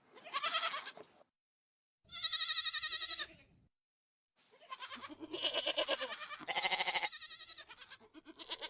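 Goat bleating repeatedly: a series of quavering bleats separated by short pauses.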